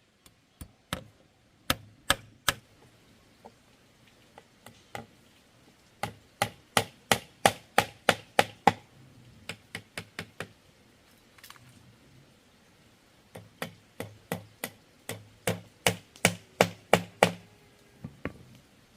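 Repeated sharp strikes of a hand tool on bamboo, chopping or hammering, coming in quick runs of about three blows a second with short pauses between.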